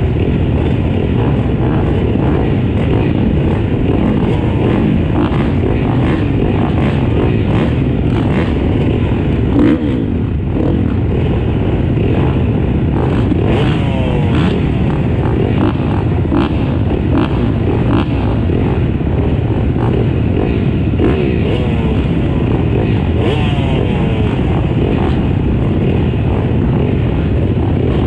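A pack of motocross bikes racing, many engines revving at once, their pitches rising and falling over one another in a continuous loud roar.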